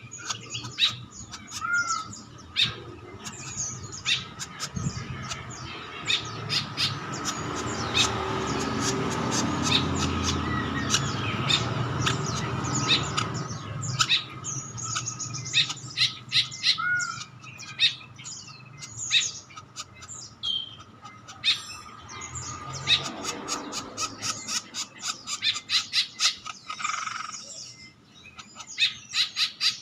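Male green woodpecker calling: many short, sharp chirps and squawks in irregular runs, some falling in pitch. A steady high tone continues underneath.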